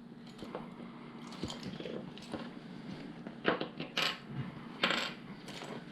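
Small plastic LEGO pieces clicking and clattering as they are handled and pressed into place, with a few sharper clicks in the second half.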